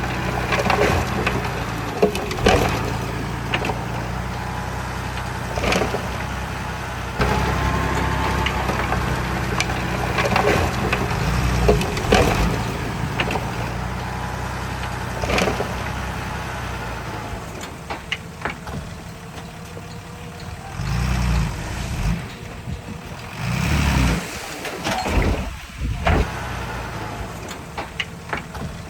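Diesel engine of heavy earthmoving machinery running steadily, with sharp metallic clanks every few seconds. It grows quieter in the second half, where a few low thumps stand out.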